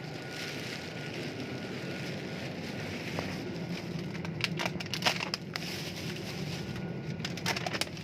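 Steady background hum of an airport apron with a faint steady whine. There are two short bursts of clicks and rattles, about four and a half seconds in and again near the end.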